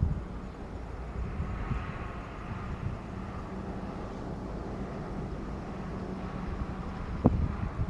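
Airbus A320-232's IAE V2500 turbofan engines heard at a distance, a steady hum with a faint whine. A brief knock comes near the end.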